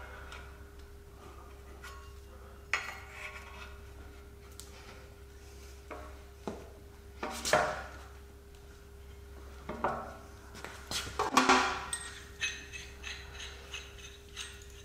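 Metal hand tools being handled and knocked together: scattered clacks and clinks, the loudest around the middle and a little after, then a quick run of light clinks near the end, over a faint steady hum.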